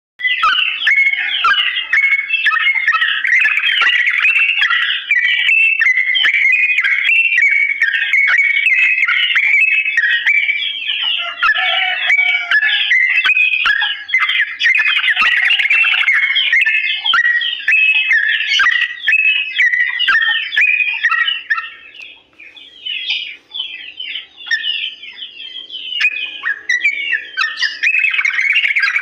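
Yellow-vented bulbul (trucukan) singing a long, continuous run of rapid, bubbling chirps and whistled notes, used as a song for other bulbuls to copy. The song thins out and drops for a few seconds near the end, then comes back fully.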